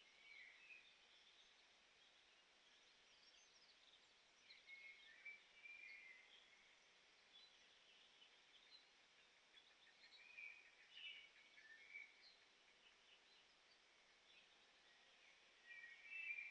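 Faint birdsong: short chirping phrases from small birds every few seconds over a quiet background hiss, a little louder near the end.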